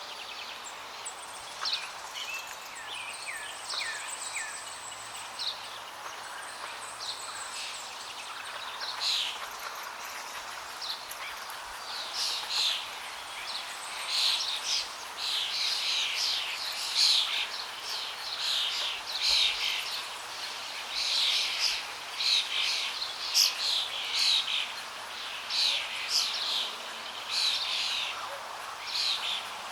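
Birds calling and chirping over the steady rush of flowing water. The short, repeated calls grow busier about twelve seconds in.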